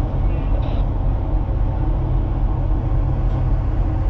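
Steady low rumble of a tanker's engine running at slow ahead, even in level with no change.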